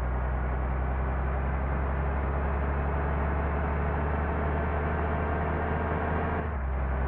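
Large diesel engine running steadily, a low droning hum with a layer of noise above it.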